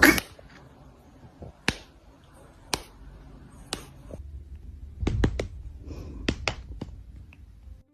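A series of sharp clicks: three single ones about a second apart, then a quick cluster of four or five, and a few more after.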